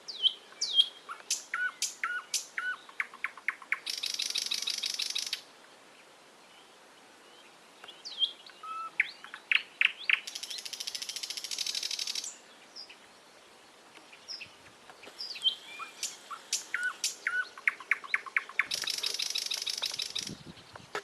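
A songbird singing the same song three times, about seven seconds apart. Each song is a string of sliding chirps and quick repeated notes that ends in a fast, high trill lasting about a second and a half.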